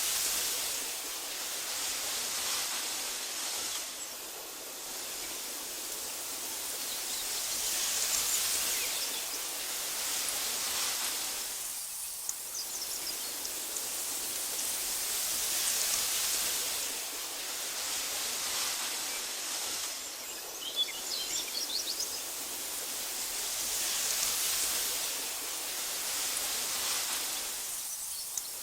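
Wind rushing through meadow grass, swelling and easing in slow gusts about every eight seconds. Faint bird chirps come through about eight seconds in, around twenty seconds, and near the end.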